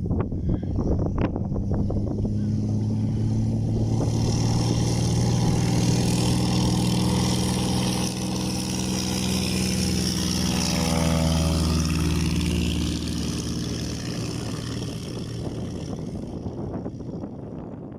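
Piper Pawnee 235 crop-duster's six-cylinder Lycoming engine passing low overhead. The engine drone swells over the first few seconds, holds loud, drops in pitch as the plane goes by, then fades away near the end.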